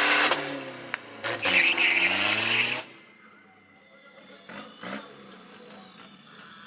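A car engine revving, its pitch rising and falling, loud for about three seconds before it stops. It is followed by a quiet stretch with a few light clicks.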